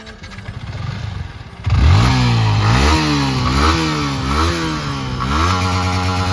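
Yamaha R15 V3 single-cylinder motorcycle engine with its current, pre-Akrapovic exhaust. It idles low at first, then about a second and a half in it is revved up and let fall several times, and near the end it is held at a steady higher rev.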